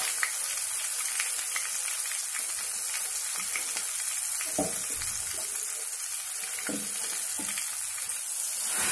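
Green pea paste sizzling in hot ghee in a kadai: a steady frying hiss with scattered small crackles and pops.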